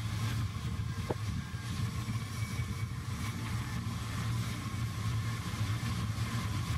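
Rigi rack railway train running: a steady low drone of the railcar with an even hiss of its motion, and a short click about a second in.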